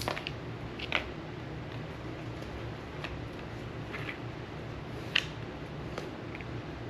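A few scattered light clicks and taps of small objects being handled, one louder click about five seconds in, over a steady low hum.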